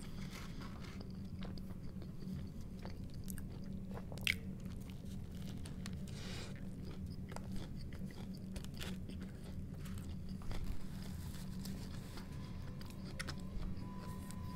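A person chewing a toasted sandwich with the mouth close to the microphone, faint, with a few soft crunches and clicks, the sharpest about four seconds in, over a steady low hum.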